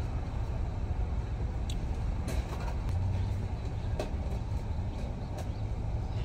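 Car engine idling, a steady low rumble heard from inside the cabin, with a few faint clicks and taps.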